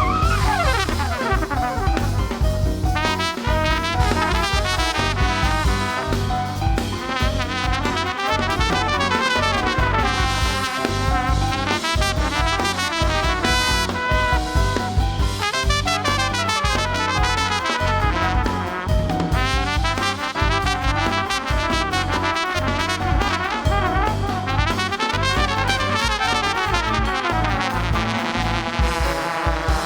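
Jazz quartet playing: a trumpet carries the melodic line over piano, double bass and drum kit.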